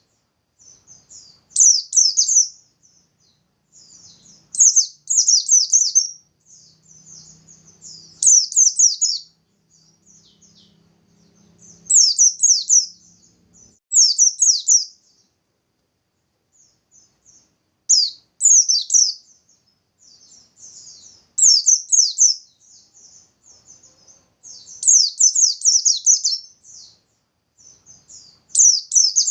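Pleci (bustomi white-eye) singing its full, rapid high-pitched song ('nembak'): loud phrases about a second long, repeated every two to three seconds with softer twitters between them.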